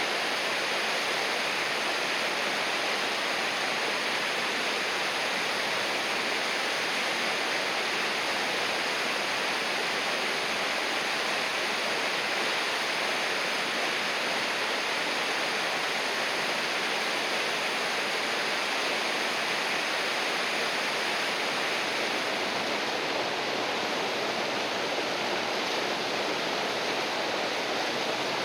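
River water flowing, a steady, unbroken rush with no change in level.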